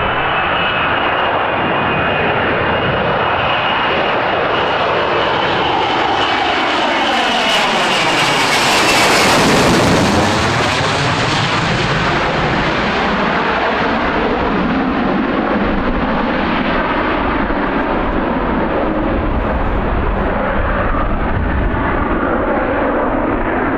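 F-35B Lightning II's single F135 turbofan jet engine as the jet flies past. It is a loud, steady roar with a high whine that drops in pitch as it passes. The sound is loudest and brightest about nine to ten seconds in, then becomes a lower roar as it moves away.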